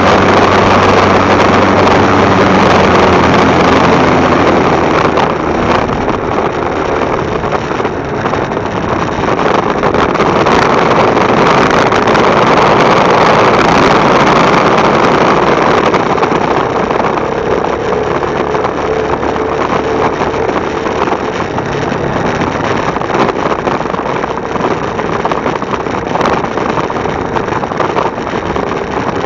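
Motorcycle engine running while riding, under a heavy rush of wind on the microphone. The engine's steady low note fades into the wind noise after about five seconds.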